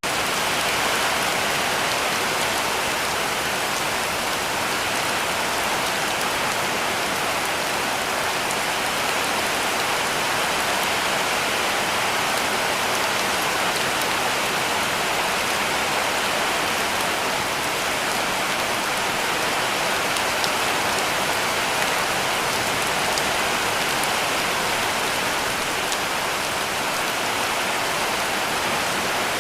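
Heavy rain falling steadily on a roof: an even, dense hiss with faint drop ticks scattered through it.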